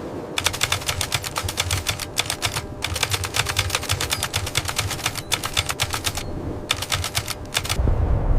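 Automatic gunfire: four bursts of about ten rapid shots a second, with short pauses between them, over a low battlefield rumble.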